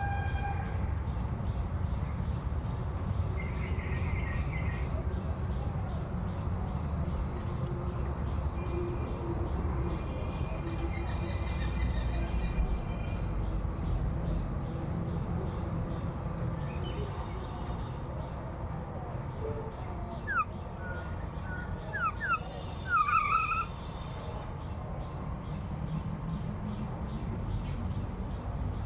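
Outdoor rural ambience: a steady high insect drone over a constant low rumble. A few short, sharp bird chirps come about twenty seconds in.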